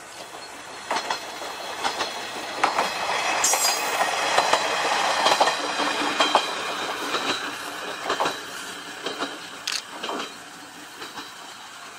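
Isumi Railway single-car diesel railcar passing close by, its engine running and its wheels clacking over the rail joints. The sound builds to its loudest about four to six seconds in, then fades as the railcar moves away.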